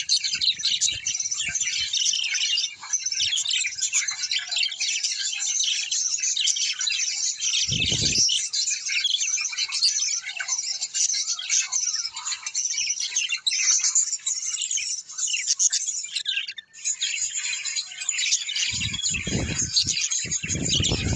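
Many small birds chirping and chattering together in a dense, unbroken chorus, with a brief break about two-thirds of the way through. A dull low thump comes about eight seconds in, and more thumps near the end.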